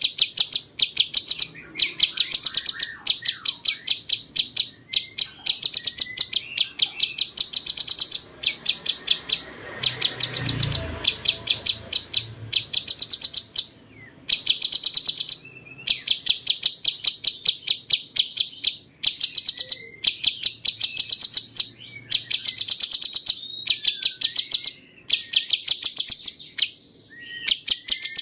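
Cucak cungkok songbird singing fast runs of sharp, high, rapidly repeated notes, each run one to two seconds long with short breaks between. This is a harsh, rapid style of song that is prized for training contest birds.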